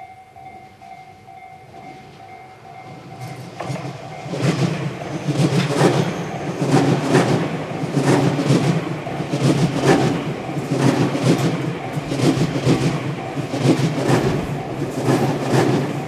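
Tobu 50070 series electric multiple-unit train passing close by. It starts faint with a few steady tones, then from about four seconds in grows loud as the cars rush past, with a steady low rumble and repeated irregular clacks of the wheels on the rails.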